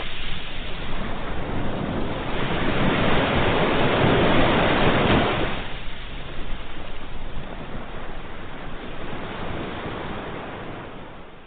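Ocean waves breaking and washing on the shore. One wave swells to a peak about four seconds in and then draws back, and the sound fades down near the end.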